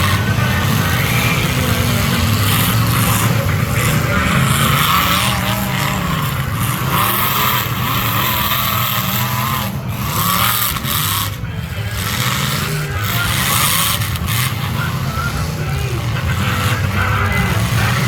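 Demolition derby cars' engines running hard and revving, their pitch rising and falling over a steady rush of noise.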